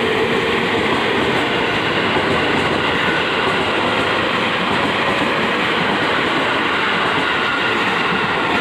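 Electric commuter train (KRL Commuter Line multiple unit) running past along the platform track: steady, loud noise of its wheels on the rails and cars passing.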